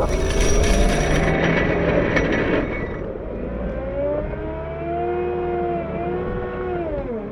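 CAT 908 compact wheel loader's diesel engine working, with a gritty scraping of the plow on pavement for the first three seconds or so. After that the engine note rises and falls, dropping sharply just before the end.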